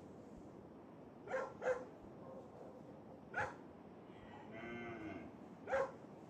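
Dogs barking in single sharp barks, four in all, two of them close together near the start. Between the last two barks there is a longer call of about a second with a wavering pitch.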